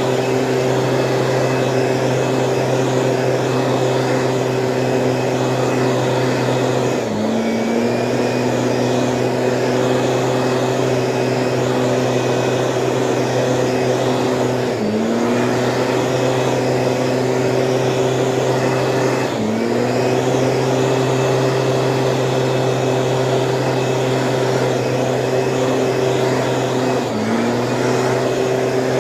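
Small two-stroke Stihl engine of a motorized weed sprayer running steadily at high speed. Four times its pitch briefly drops and then climbs back up.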